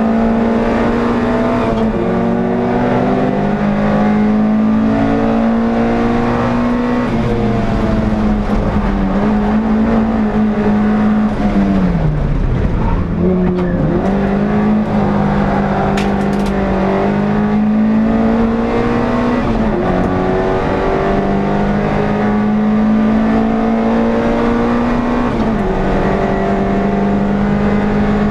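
NSU TT's air-cooled engine running hard at racing revs, heard from on board the car. The note holds high with a few small steps, then falls sharply and climbs back up near the middle.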